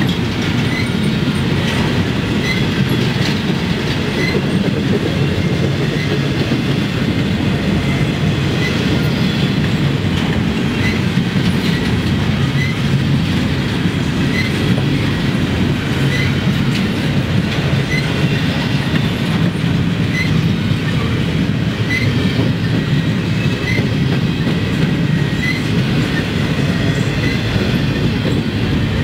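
Freight train cars rolling past at steady speed: autoracks, then empty double-stack well cars near the end. A constant rumble of wheels on rail, with short, high wheel chirps and clicks about once a second.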